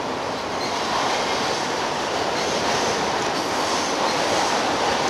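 Freight train cars rolling across a steel through-truss railroad bridge overhead, a steady, dense rolling noise with no letup.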